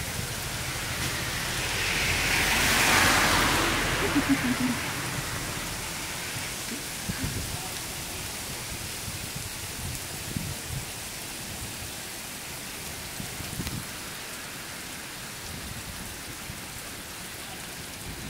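Heavy rain pouring steadily onto a wet street. About three seconds in, a louder swell of rushing hiss rises and then fades.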